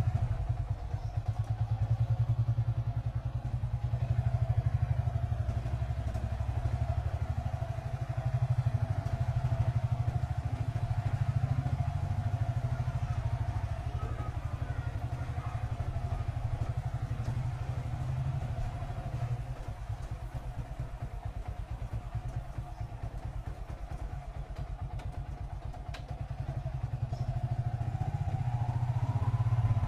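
Small motorcycle engine running at low, steady speed. It eases off through the middle and picks up again near the end with a rising note.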